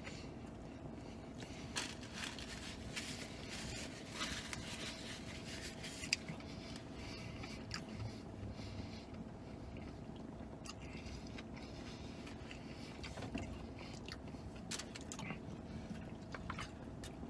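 A person chewing and biting a bacon cheeseburger on a pretzel bun close to the microphone: soft, irregular wet mouth clicks and crunches over a faint steady hum.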